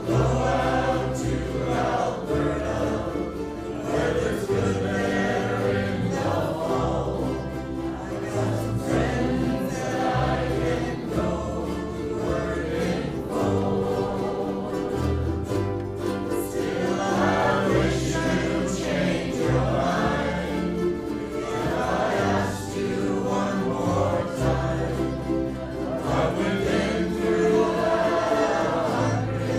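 A group of voices singing a folk song in unison to massed ukulele strumming.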